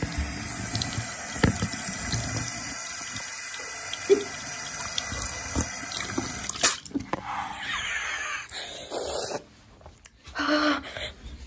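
Water running steadily from a faucet for several seconds, cutting off about seven seconds in, followed by scattered small sounds.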